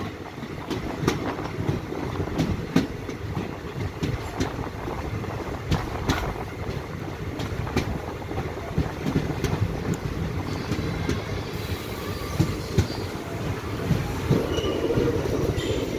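Passenger train rolling slowly through a station, heard from an open carriage doorway: a steady rumble with the wheels clacking irregularly over rail joints. Near the end the wheels begin to squeal faintly.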